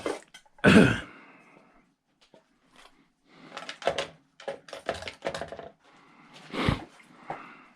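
Pieces of cast aluminum chopsaw scrap knocking and clattering as they are handled and set down. There is a loud clank about a second in, a run of lighter clatters midway, and another loud knock near the end.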